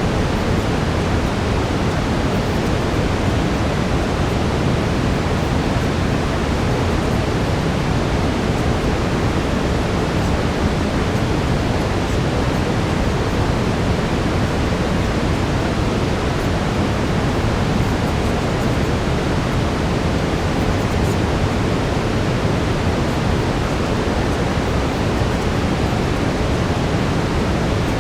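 Steady brown noise: an even, unchanging rumbling hiss weighted toward the low end, like a distant waterfall.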